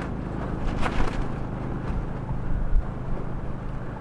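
Strong wind blowing and buffeting the microphone, with a generator's steady low hum running underneath. A few short knocks or rattles come about a second in.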